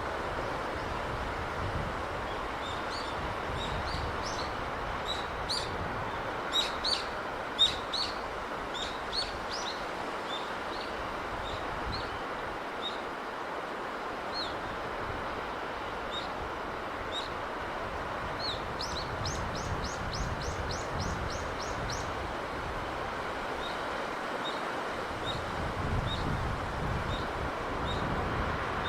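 Steady hiss of sea surf and breeze, with small birds chirping over it. A few chirps stand out loud between about six and eight seconds in, and a quick run of repeated notes comes about two-thirds of the way through.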